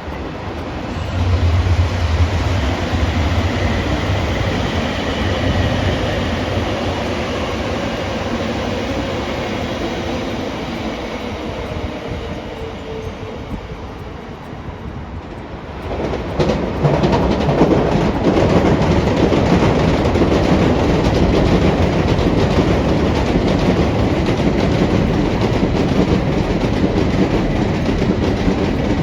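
Trains running on track, with wheels clattering over rail joints. About halfway through, the sound changes abruptly to a louder, closer rail rumble with dense clicking.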